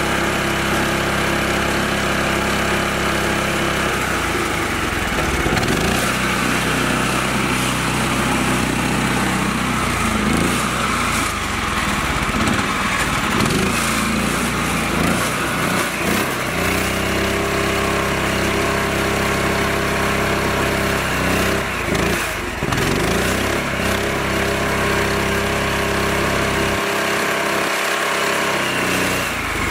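Mini tractor's small engine running steadily, its note shifting several times as the load or throttle changes.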